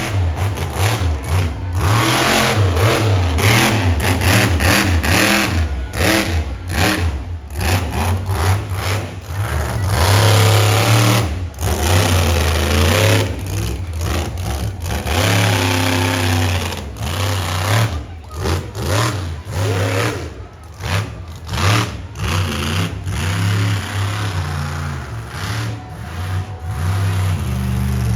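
Monster truck engine revving hard, its pitch rising and falling repeatedly, with many sharp cracks throughout.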